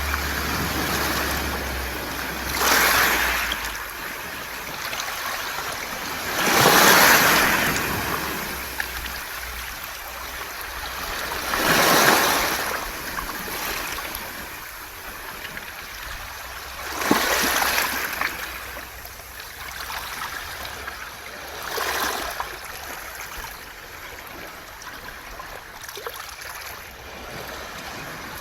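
Waves breaking and washing over a beach of smooth round pebbles (a mongdol beach), a surge about every five seconds, each swelling and then fading as the water draws back through the stones.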